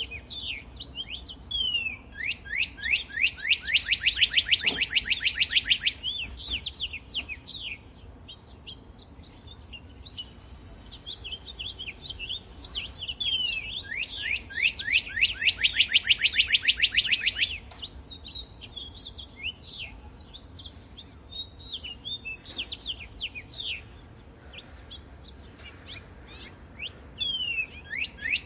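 Songbird singing: a loud, fast trill of rapidly repeated downward-sweeping notes lasting about four seconds, given twice with a third starting at the end, with scattered short chirps between the trills.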